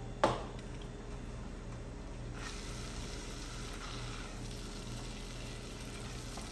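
A single sharp clank about a quarter second in, then faint sizzling of garlic-and-onion seasoning in hot oil in the rice pot, picking up about two and a half seconds in over a low steady hum.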